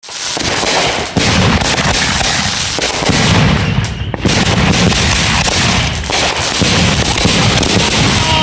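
Fireworks going off in a dense, continuous barrage of rapid bangs and crackling, with louder single reports standing out every second or two.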